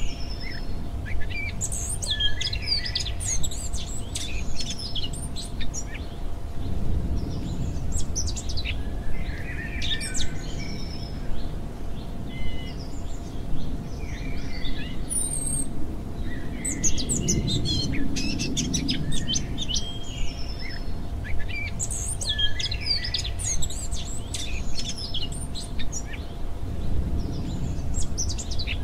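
Birdsong nature-sound ambience: many birds chirping and singing in overlapping short calls, over a low steady background rumble.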